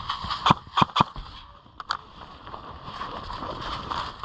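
A few sharp clicks or knocks: three in the first second, then a close pair about two seconds in, over a steady background hiss.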